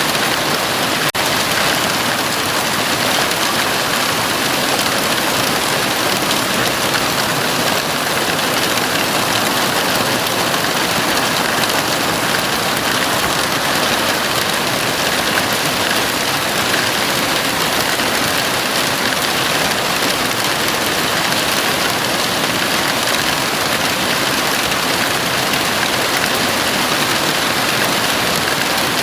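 Heavy rain falling steadily on a house roof, a dense even hiss of drops.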